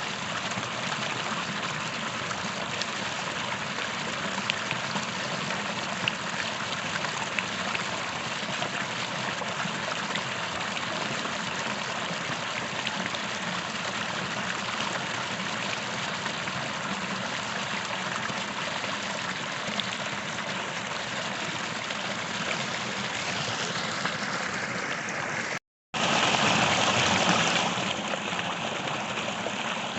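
A small stream flowing steadily over stones. Near the end the sound cuts out completely for a moment, then comes back louder and brighter for about a second and a half before settling back to the steady flow.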